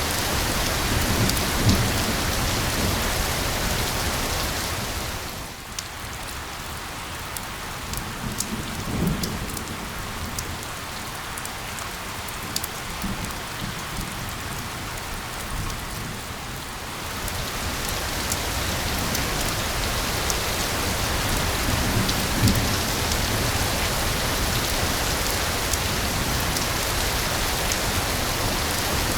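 Steady rain falling on surfaces, with a low rumble now and then. About five seconds in it eases and single drops can be picked out; around seventeen seconds it grows dense again.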